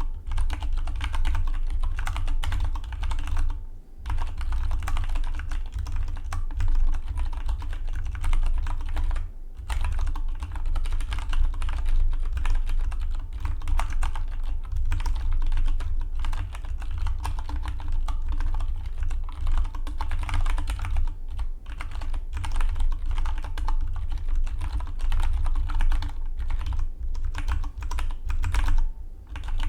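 Fast, continuous typing on a Dygma Defy split mechanical keyboard: a dense run of key clicks, broken by a few brief pauses.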